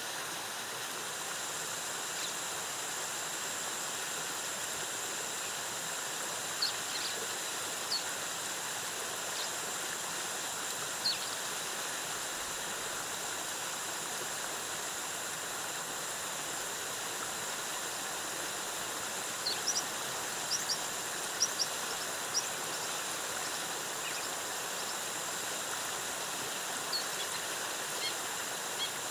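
Steady rush of a rainforest waterfall, with short high bird chirps now and then, most of them in a cluster near the middle and again near the end.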